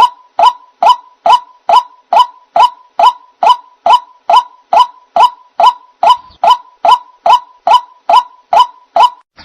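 White-breasted waterhen (ruak-ruak) call played as a bird-lure recording: one short, sharp note repeated at an even pace of about two and a half per second.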